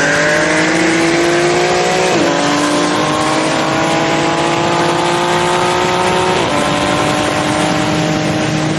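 Car engine at full throttle, accelerating hard and rising steadily in pitch through the gears. The pitch drops sharply at upshifts about two seconds in and again about six and a half seconds in.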